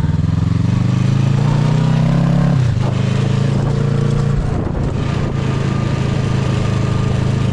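Motorcycle engine running under way, its pitch climbing for about two and a half seconds, then dropping sharply; it climbs again and drops near four and a half seconds in, then holds steady.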